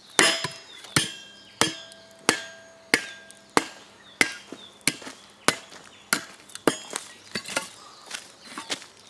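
Chopping blows struck at a steady pace, about three every two seconds, each with a short ring after it. They turn lighter and less regular in the last two seconds.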